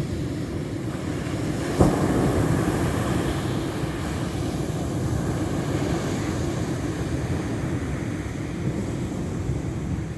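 Ocean waves surging and washing, with wind buffeting the microphone. A single sharp knock comes about two seconds in.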